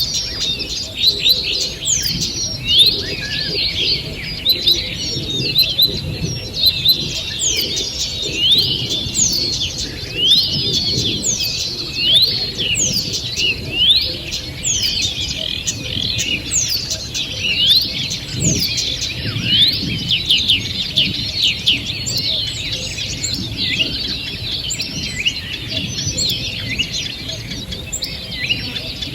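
A chorus of many songbirds singing together in a forest, with dense overlapping quick chirps and trills.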